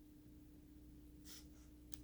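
Near silence: a faint steady electrical hum, with two brief soft hissy rustles about a second in and near the end.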